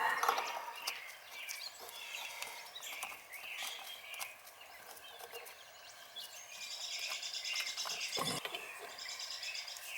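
Birds chirping and singing, with a rapid high trill from about six and a half seconds in. A single knock about eight seconds in.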